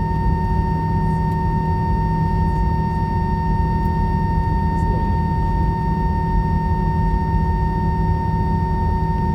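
A steady high-pitched screeching whine over a dense low rumble, heard inside an airliner cabin. The tone holds one pitch without change. It is the suspicious screech that followed one engine being shut down after landing, a sign of a technical problem with the left engine.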